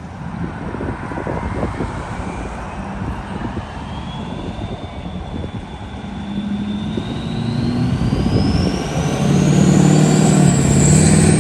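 Vehicle running, with a high whine rising slowly and steadily in pitch, and a deeper steady hum growing louder near the end.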